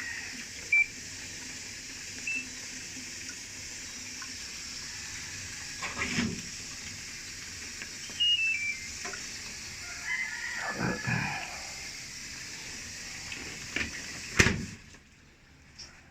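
LG top-load washing machine draining, a steady rush of water with a few short electronic beeps from the control panel. A rooster crows briefly in the background about ten seconds in. Near the end a loud clunk sounds and the water noise cuts off suddenly.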